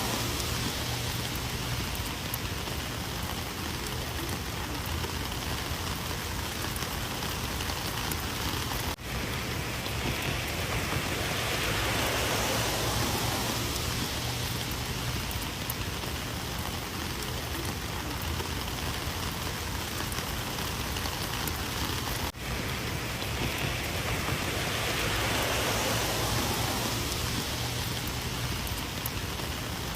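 Rain falling steadily, an even hiss that swells and eases slowly. The sound drops out for an instant twice, about 9 and 22 seconds in.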